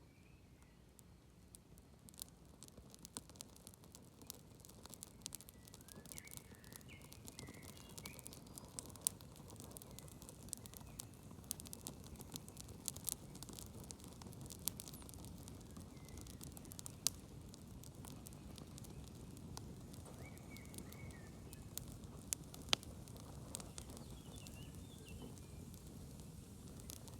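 Smoky campfire crackling: scattered sharp pops and snaps over a steady low rush of burning wood.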